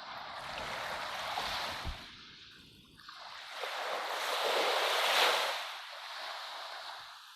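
Ocean waves washing in: two swells of surf noise, the second longer and louder, rising to a peak about five seconds in and then fading.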